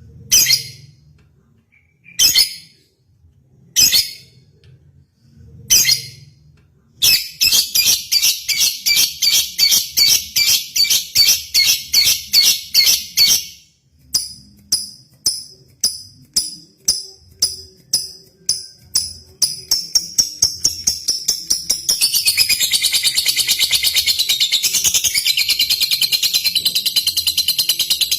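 Lovebird calling: a few separate sharp, high chirps, then a run of rapid repeated chirps that speed up and, about three quarters of the way in, run together into one continuous high chatter.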